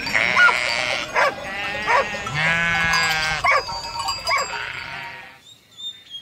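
Sheep bleating several times in a row, with one long bleat about two and a half seconds in; the calls die away near the end.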